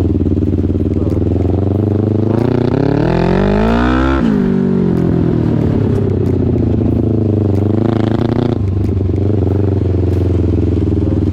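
Small racing engine accelerating, its pitch climbing for about two seconds and then dropping sharply about four seconds in, with a second, shorter climb near eight seconds. Another engine runs steadily underneath.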